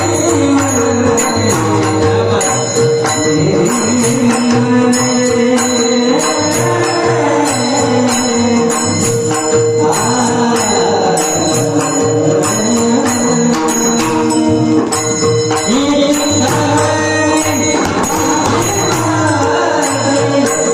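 Marathi devotional song: a gliding sung melody over a steady held drone, with jingling cymbals striking a regular beat.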